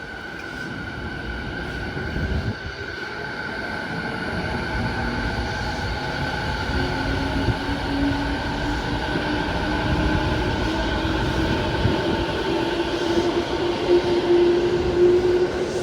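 Electric commuter train pulling out of a station and gathering speed: its traction motors whine, rising slowly in pitch, over the rumble of the wheels on the rails. The sound grows steadily louder as the train accelerates.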